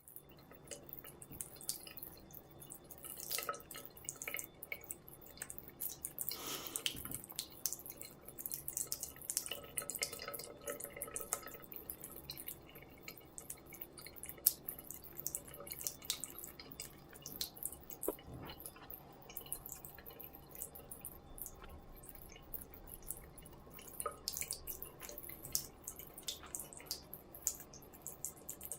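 Water dripping from a tap in irregular drops.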